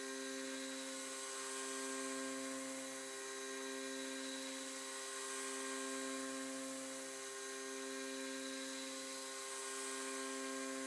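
Homemade CNC milling machine running: a steady whine of several fixed tones that swells and eases about every two seconds.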